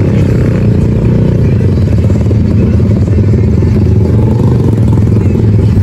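Engines of a Chevrolet Camaro and a turbocharged four-cylinder Nissan idling at a drag strip start line: a loud, steady, low engine sound with no revving.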